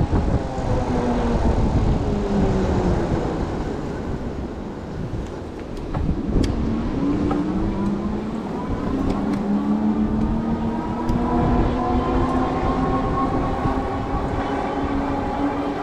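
Strong wind buffeting the microphone of an e-bike riding into a headwind, with the whine of the bike's 750 W Bafang rear hub motor underneath. The whine drops in pitch over the first few seconds, then climbs again about six seconds in and holds.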